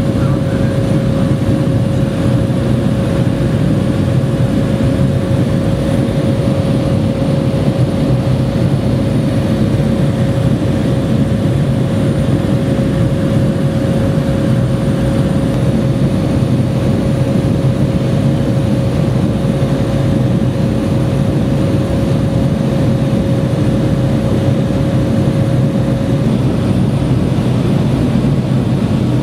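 Cessna 208 Caravan floatplane's single turboprop engine and propeller running steadily in cruise flight, a dense even noise with a thin steady whine that drops out near the end.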